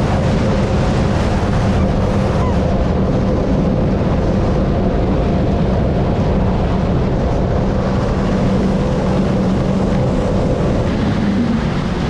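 Sea-Doo jet ski engine running at a steady high speed under way, with wind noise on the microphone and the rush of water. The engine note holds one pitch and shifts slightly near the end.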